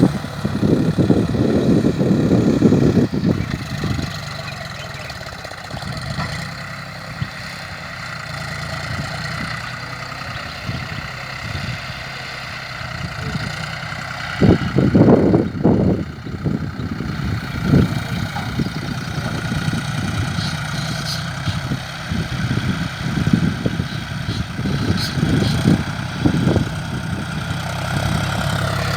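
John Deere 5105 tractor's three-cylinder diesel engine running steadily, with loud low rumbling surges in the first few seconds, again around the middle, and in shorter patches towards the end.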